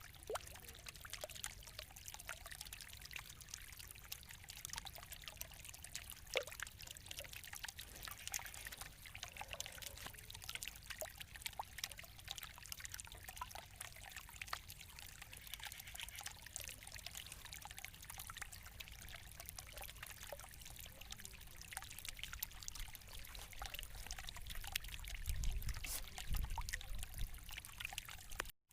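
Water trickling and splashing faintly and steadily, with many fine splashes. A low rumble of wind on the microphone comes in briefly near the end.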